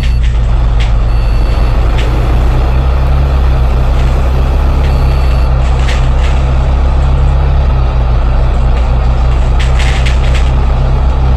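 Bus engine running steadily under load, heard from inside the cabin as a loud, constant low drone with body rattle over it. A few short sharp clicks or clanks sound about one, six and ten seconds in.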